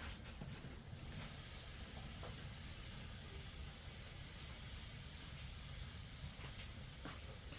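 Food sizzling in a hot pan: a steady hiss that sets in about a second in, with a few light clicks.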